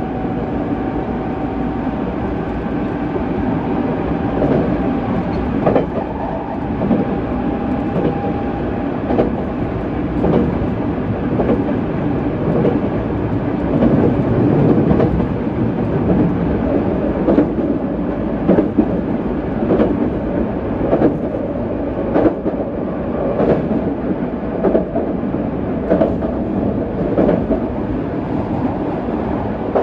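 JR West 207 series electric commuter train running at speed, heard from inside the car: a steady rumble of wheels on rail with a click from a rail joint about every second. A thin steady whine fades out about nine seconds in.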